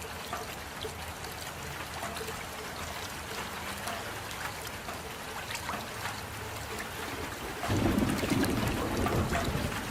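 Steady rain falling, a constant patter with individual drops ticking through it. A louder low rumble joins in near the end.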